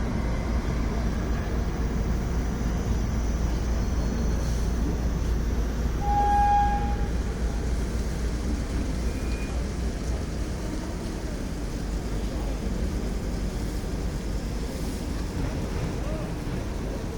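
Steady low rumble of a moving train, with one short horn toot about six seconds in.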